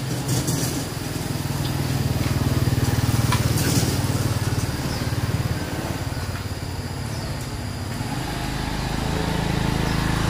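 A small engine running steadily, its level swelling a little in the middle, easing off, then rising again near the end.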